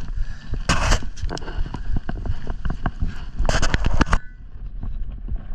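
Twigs and branches crackling and scraping as fallen wood is handled, with many sharp snaps and two louder rustling bursts, about a second in and again about three and a half seconds in.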